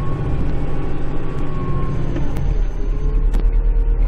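Kubota Grand L5740 tractor's diesel engine running steadily under load while plowing snow, heard from inside the cab, with a faint whine that shifts in pitch over the engine's low rumble.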